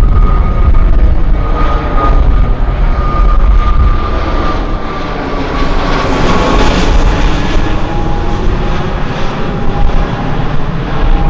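A jet airliner passing close by. Its engine whine drops in pitch as it goes past, and the noise is loudest about six and a half seconds in. Strong wind buffets the microphone throughout.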